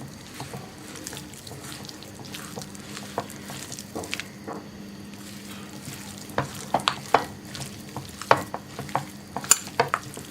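Chicken pieces being mixed by hand in a bowl with a damp flour, cornflour and rice-flour batter coating: irregular wet squelches and small clicks that grow busier in the second half, over a steady low hum.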